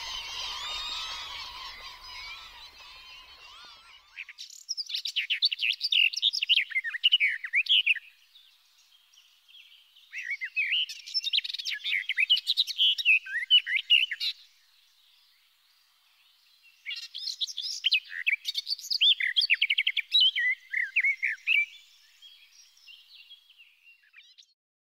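A flock of birds calling together fades out over the first few seconds. Then a songbird sings three phrases of rapid, high chirping song, each a few seconds long, with pauses between.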